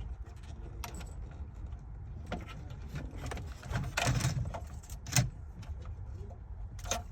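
Plastic wiring-harness connectors being unclipped and pulled from the back of a car radio: scattered clicks and rattles, with a denser clatter about four seconds in and a sharp click just after five seconds.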